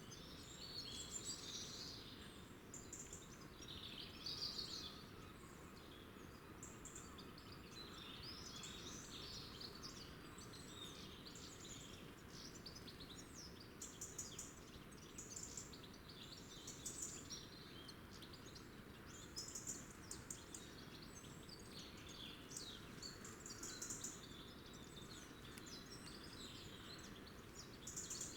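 Small wild birds chirping and twittering, with many short high calls overlapping throughout, over a steady faint background hiss and rumble.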